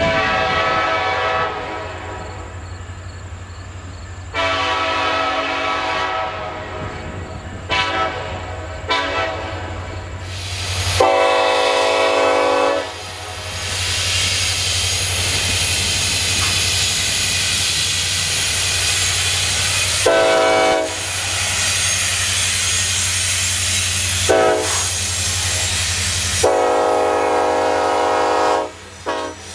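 Norfolk Southern diesel freight locomotive sounding its air horn in a series of long and short blasts over the steady drone of its engine. From about halfway on, the loud rumble and wheel clatter of hopper cars rolling past join in, with further horn blasts, the last one long, near the end.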